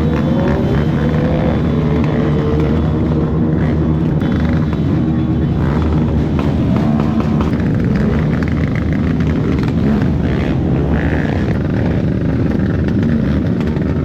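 Several motorcycle engines running and revving at once, their pitch rising and falling.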